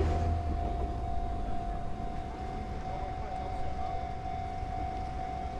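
An Enoshima Electric Railway train running past, its low rumble fading in the first second or so, while one steady high tone sounds throughout.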